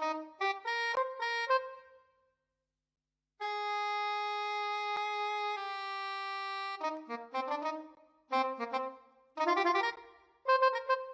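Sampled big-band saxophones and brass from the Fable Sounds Broadway Lites library playing short phrases. After a brief pause comes a long held note that steps down slightly to a second held note, then more short phrases ending on a chord.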